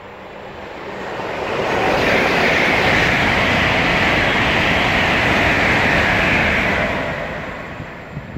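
LNER Azuma (Class 800/801) high-speed train passing at speed. The rush of wheels on rail and air builds over the first two seconds, stays loud for about five seconds as the coaches go by, then fades as it draws away.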